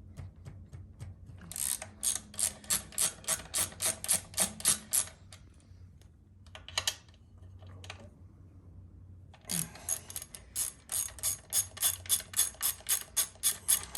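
Hand ratchet wrench clicking at about four clicks a second as it turns a bolt on the motorcycle's rear-set mounting. It runs in three spells: a few seconds' worth early, a brief one in the middle, and a longer run near the end.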